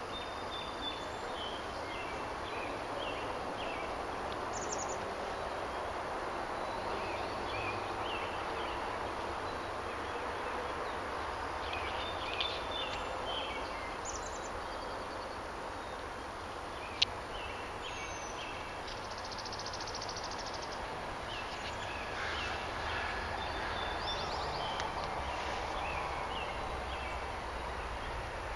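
Outdoor ambience: small birds chirping and calling over and over above a steady, even rushing noise. A single sharp click sounds about seventeen seconds in.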